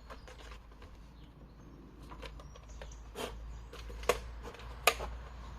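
A few sharp, isolated knocks and clicks over a low steady hum, the clearest three spaced about a second apart in the second half, with no engine running.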